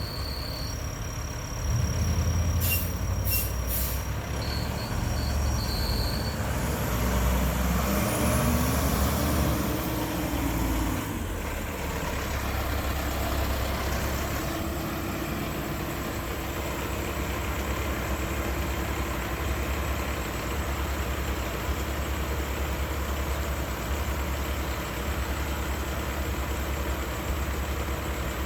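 Mack LR garbage truck's engine running steadily, with a short air-brake hiss a few seconds in. About eight seconds in the engine revs up, holds, and drops back around eleven seconds.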